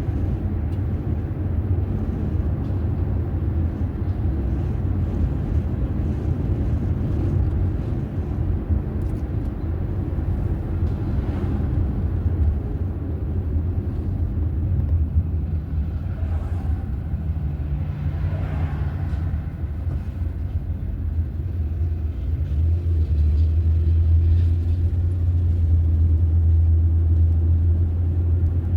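Car on the move: a steady low rumble of engine and road noise, growing louder about four-fifths of the way through.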